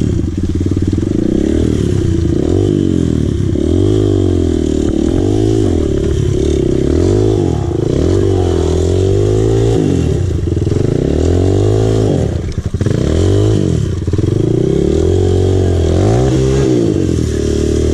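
Dirt bike engine running under load, its revs rising and falling over and over as the throttle is opened and closed.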